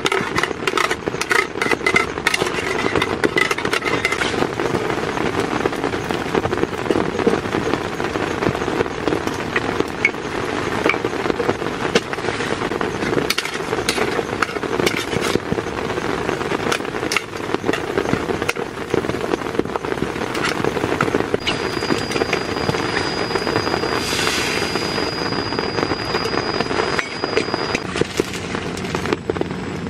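Egg and aromatics frying in oil in a small camping pan on a gas stove, spitting and crackling, over the steady patter of heavy rain on the tent. A faint steady high whistle joins for several seconds in the last third.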